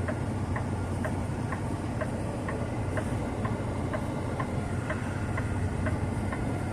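Semi truck's diesel engine running low and steady while backing up, with the four-way hazard flasher clicking evenly about twice a second.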